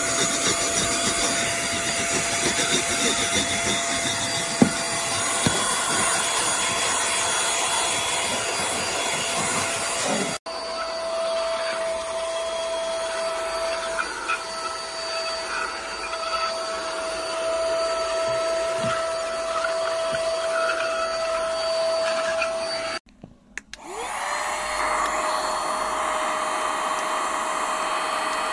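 Handheld cordless mini vacuum cleaner running with a steady high motor whine and airflow hiss, with a few small knocks and rubs. Near the end it cuts out for about a second, then spins back up, its whine rising to pitch.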